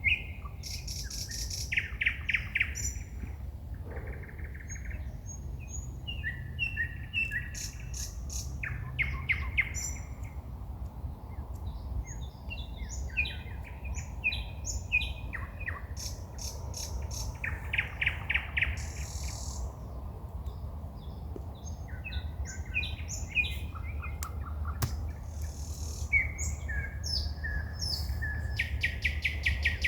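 Woodland songbirds singing at night: a string of varied phrases made of rapid repeated notes, trills and whistles, over a steady low rumble.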